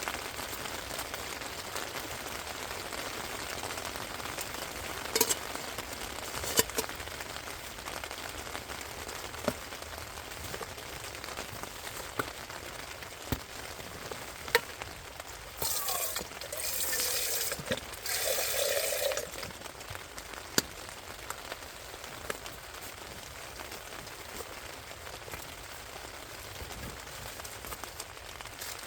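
Steady rain, with scattered single drops striking close by as sharp ticks. About halfway through, a louder hissing noise lasts about three seconds, with a falling tone under it.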